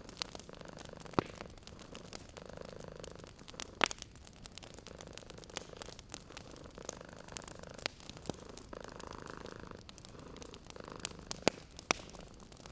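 A cat purring steadily under a wood fire crackling, with sharp pops from the fire scattered through, the loudest about a second in, near four seconds and twice near the end.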